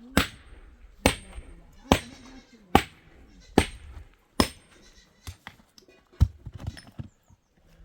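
A run of sharp, evenly paced blows, about one a second, like chopping or hammering, that thin out in the last few seconds. Livestock bleat between the blows.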